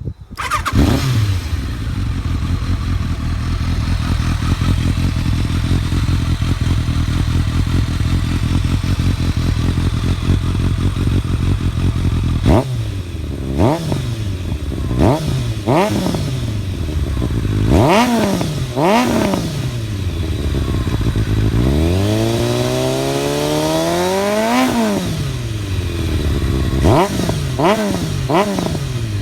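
Kawasaki ZRX1100's inline-four engine through a KERKER slip-on muffler, starting up and settling to a steady idle. About twelve seconds in it is revved in a run of six quick throttle blips, then one slower rev that climbs and drops, then four more quick blips near the end.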